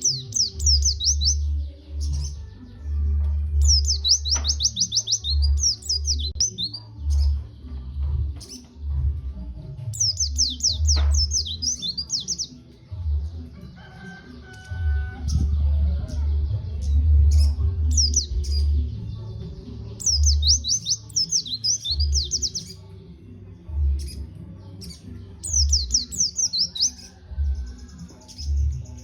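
White-eye (pleci) song: bursts of rapid, high twittering phrases every few seconds, the kind of recording played as a lure to set captive white-eyes singing. A loud, uneven low rumble runs underneath.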